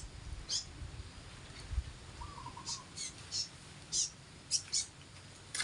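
Small bird giving short, sharp, high chirps, about eight of them at irregular intervals.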